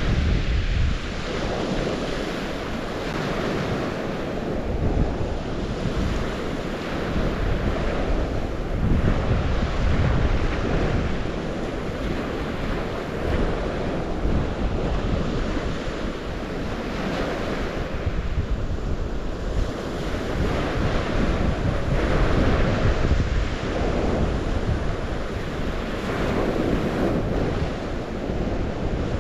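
Waves washing in along the shore, swelling and easing every few seconds, with wind rumbling on the microphone.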